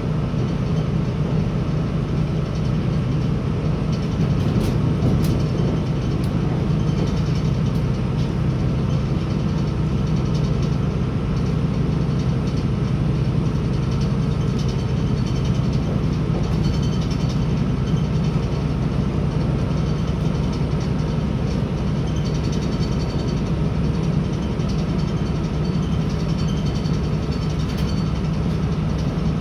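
Inside a Northern Ireland Railways CAF 3000 diesel multiple unit running at speed: a steady low drone of the train in motion, with wheel and rail noise over it.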